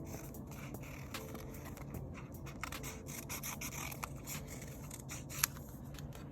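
Stickers and paper being handled at a desk: scraping and rubbing with many light clicks, and one sharper click about five and a half seconds in.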